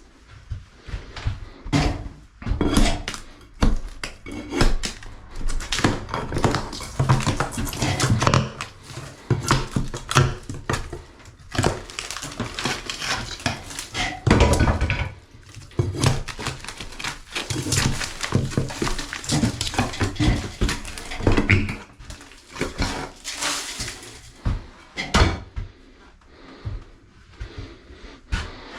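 Continuous clattering and knocking of hard household objects, several sharp clacks a second, like dishes and utensils being handled and tossed together.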